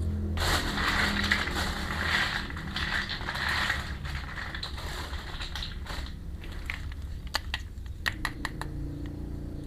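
Small plastic toy parts and packaging being handled: a dense crinkling, crackling rustle for about three and a half seconds, then a series of sharp, separate plastic clicks.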